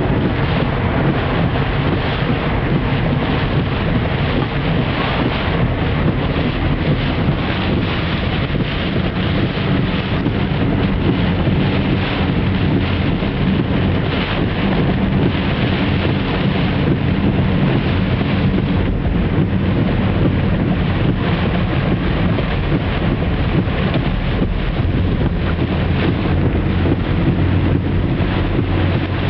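A car driving through a flooded street in tropical-storm wind and rain. A steady rush of wind and spraying water covers a low, even hum of the engine and tyres.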